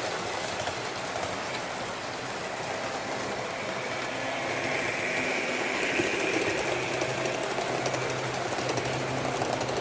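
H0-scale model train running along its track: a steady mechanical rattle with fine clicking from the wheels, a little louder in the second half, and a low steady hum from the model's electric motor coming in about seven seconds in.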